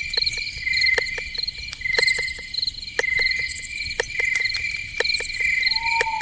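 Crickets chirping in a night chorus, short pulsed trills repeating over and over, with many sharp clicks scattered among them. Near the end a lower call starts that slides down in pitch.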